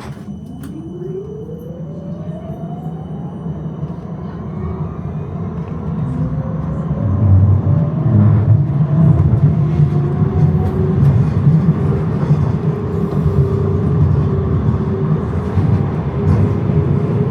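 Electric tram pulling away from a stop: the traction motor whine rises in pitch as it speeds up, while the low rumble of wheels on the rails grows steadily louder.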